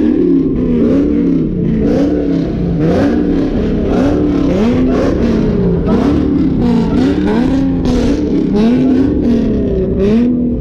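Car engine being revved over and over, its pitch climbing and dropping about once a second, with sharp cracks scattered through.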